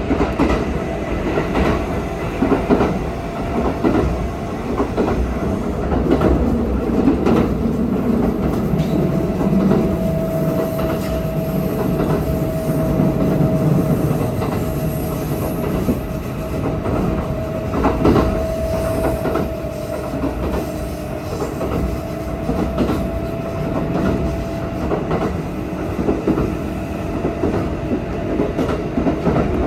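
Kintetsu Osaka Line electric train with Hitachi GTO inverter equipment running at speed, heard from inside the car: wheels clicking over rail joints over a steady rumble. A steady whine holds through the middle of the stretch.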